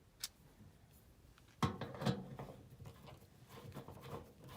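Handling noises from tools or parts being moved during work on the furnace: a small click, then a sharp knock about a second and a half in, followed by lighter knocks and rustling.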